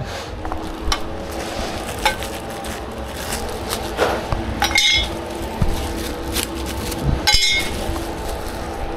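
Metal parts and tools clinking and knocking while castors are fitted to a steel board trolley. There are light knocks about one and two seconds in, and sharp ringing clinks about five seconds in and again about seven seconds in, over a steady hum.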